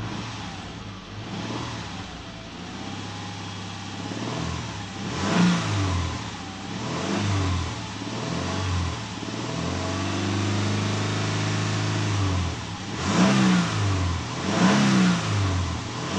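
2011 Subaru Outback's 2.5-litre flat-four petrol engine being free-revved with the car stationary. It is blipped up and back toward idle several times, held at a higher speed for a couple of seconds midway, then given three quick blips near the end.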